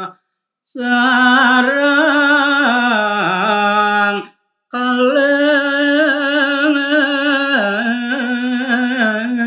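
A solo man's voice sings a Balinese tembang (geguritan verse in pupuh Sinom) with no accompaniment. He holds long notes with wavering ornaments in two phrases, breaking off briefly a little after 4 seconds in.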